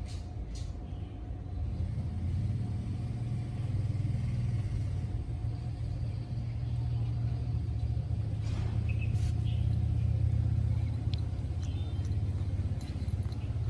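A low, steady rumble with a fast, fine pulsing, and a few faint clicks.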